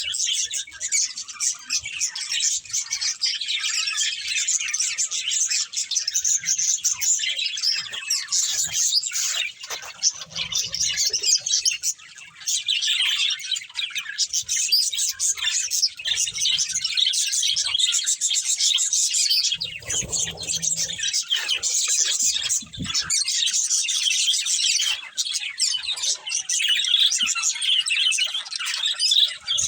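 Budgerigars chirping and chattering without a break, a dense stream of high twittering.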